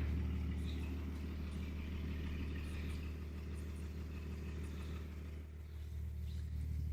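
The 12-valve Cummins inline-six diesel of a 1991 Blue Bird school bus idling steadily as it warms up: a low, even engine sound with no revving.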